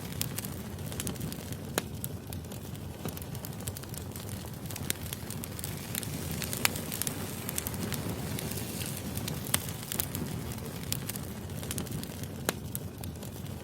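Firewood burning: a steady low rumble of flames with sharp crackles and pops scattered irregularly throughout, a handful of them louder than the rest.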